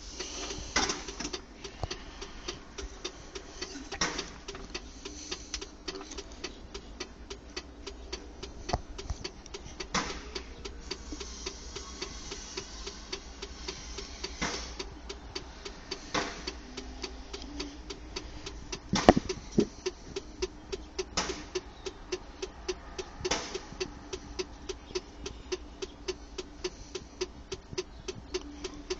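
Ford 4830 tractor's diesel engine running just after a cold start, with a steady, rapid, even clatter of knocks and a few louder knocks, the loudest about 19 seconds in.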